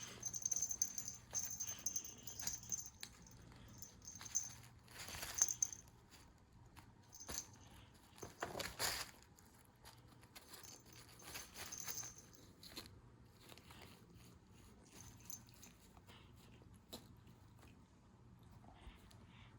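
Cat play: scattered rustles, light taps and swishes of a toy and a cat scrambling after it, busiest in the first half and again around the middle, with a faint high jingle now and then.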